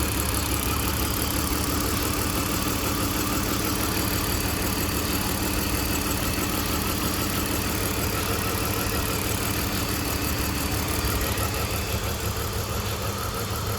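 BMW E46 325xi's 2.5-litre inline-six (M54) idling steadily with an even pulse, running with the cylinder 4 misfire that shakes it at idle, which the owner suspects is a valve problem.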